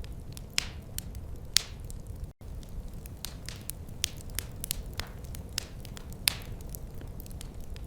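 Wood fire crackling: irregular sharp pops and snaps, a few a second, over a steady low rumble of the burning fire. The sound drops out for an instant a little over two seconds in.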